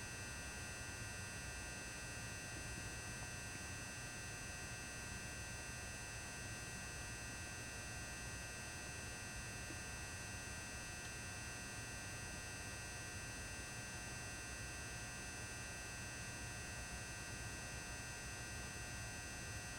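Faint, steady hum of a 400-watt mercury vapor high bay lamp's magnetic ballast, running quietly.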